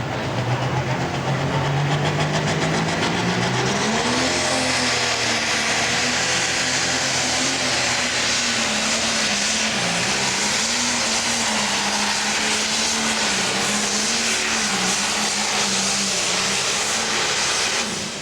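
Pro stock pulling tractor's turbocharged diesel engine at full power under load during a pull. The revs climb over the first four seconds, then hold high with slight rises and dips, and the sound drops away near the end.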